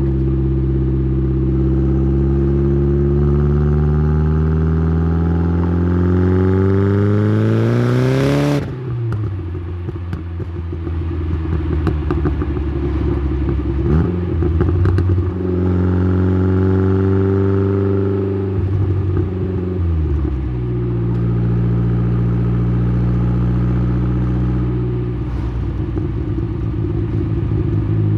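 Exhaust note of a tuned Saab 9-3's B204 turbocharged four-cylinder, heard through a microphone at the tailpipe: the engine pulls steadily up through the revs for about eight seconds, then the revs drop sharply off the throttle with a brief hiss. It then runs at part throttle, with the revs rising and falling again and a shift down in pitch near the twenty-second mark.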